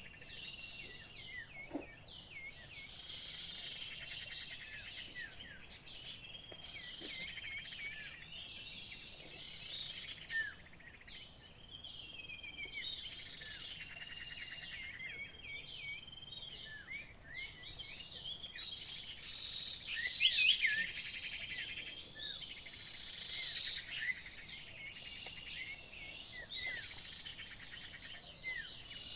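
Small birds chirping and singing, with quick high chirps, trills and short rising and falling whistles in repeated phrases.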